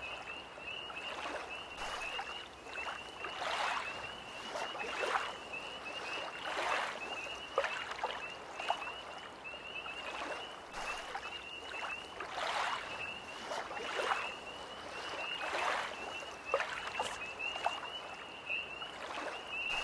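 Small lake waves lapping and splashing in irregular slaps every second or two, under a tree frog's continuous high, rapidly pulsing trill.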